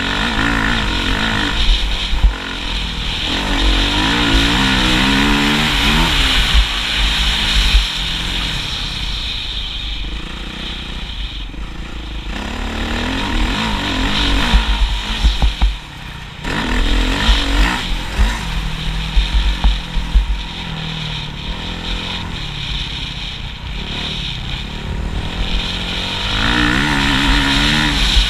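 Motocross motorcycle engines revving, the pitch rising and falling again and again as the bikes accelerate, shift and back off, with louder surges every few seconds.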